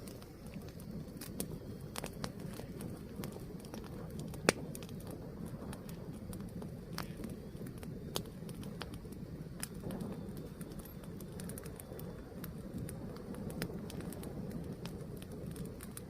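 Fire burning, with a steady low rush and scattered crackles and pops, one sharp loud pop about four and a half seconds in.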